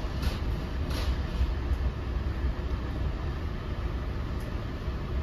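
Steady low rumble of an NJ Transit MultiLevel coach running at speed, heard from inside the passenger cabin, with a few sharp clicks of the wheels over the track in the first two seconds.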